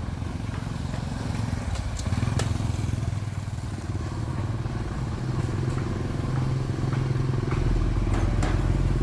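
A heavy diesel engine running with a rapid low throb and growing steadily louder, with scattered clicks and clatter. A deeper drone joins near the end.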